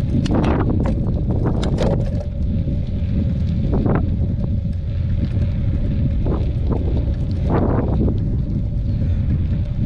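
Wind buffeting the microphone of a camera on a moving bicycle, a steady loud rumble, with scattered clicks and rattles from the bike over the trail.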